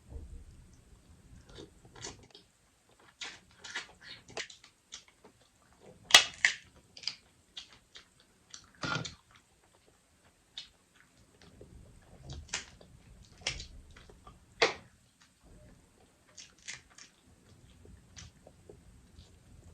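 Close-up eating of a seafood boil: chewing and biting, with sharp cracks and clicks scattered throughout. The loudest crack comes about six seconds in.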